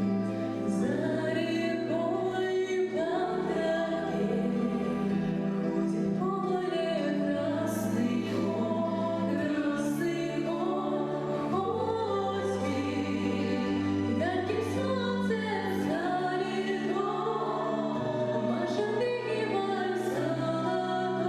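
Children's voices singing a song together over an instrumental accompaniment, with held bass notes that change every second or two.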